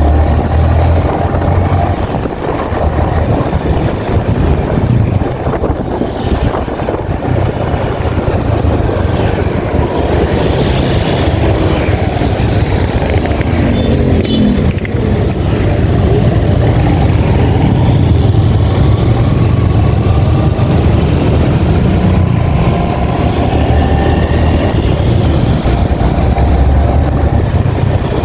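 Yamaha XSR 155's single-cylinder engine running under way, heard from on the bike, with road and wind noise. The engine note rises and falls as the speed changes.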